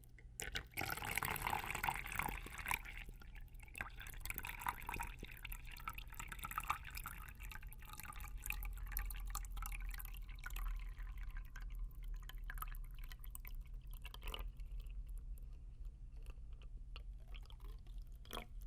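Water being poured slowly into a cup close to the microphone, a trickling and dripping that is fullest over the first few seconds and then thins out to a lighter trickle.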